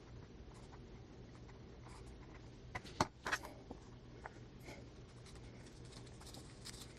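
Quiet handling of paper and trim: scattered soft rustles and small taps as rickrack trim is pressed onto a journal page, with one sharper click about three seconds in.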